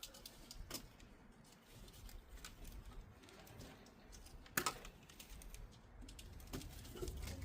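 Scattered light clicks and taps from hand work on parts in a van's engine bay, with one sharper click about four and a half seconds in.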